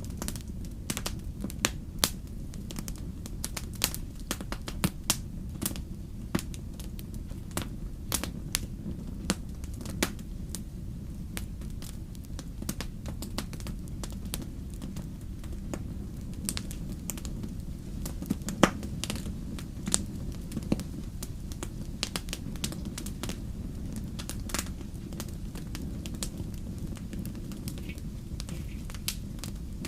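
Wood fire in a fireplace crackling, with irregular sharp pops and snaps over a steady low rumble. One pop about 18 and a half seconds in is louder than the rest.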